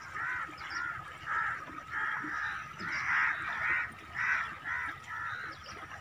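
Birds giving a run of short, harsh calls, about two a second.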